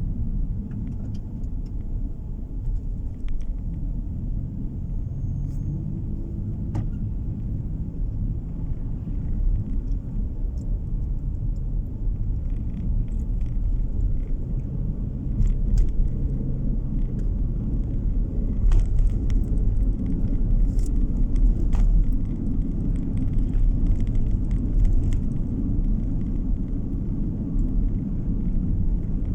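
Car interior road noise while driving: a steady low rumble of engine and tyres, with occasional faint clicks and ticks.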